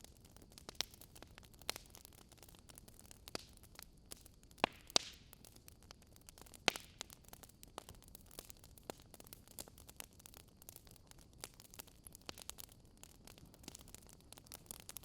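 Burning wood logs crackling, with irregular sharp pops and snaps over a low hiss; the loudest pops come near the middle.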